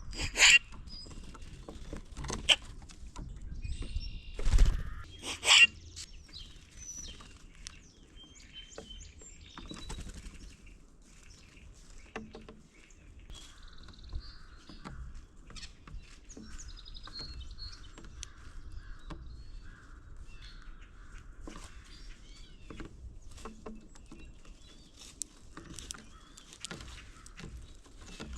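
Several birds calling and chirping, with four loud, sharp calls in the first six seconds, then a run of scattered short chirps and chatter.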